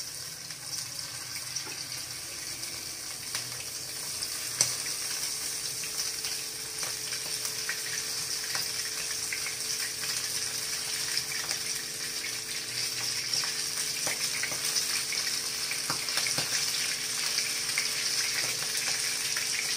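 Batter-coated prawns sizzling in hot oil in a frying pan as they are dropped in one by one for deep-frying. The sizzle grows gradually louder as more prawns go in, with scattered small spatters.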